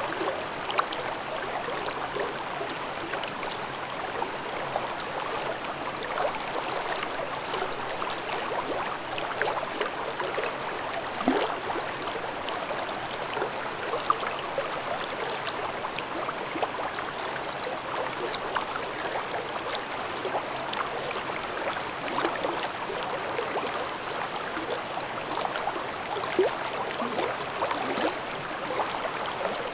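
Mountain brook babbling over rocks: a steady rush of water with many small splashes and gurgles scattered through it.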